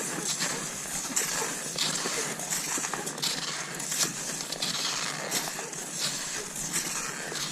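Cross-country skis sliding and crunching over snow, with regular strokes a little under one a second.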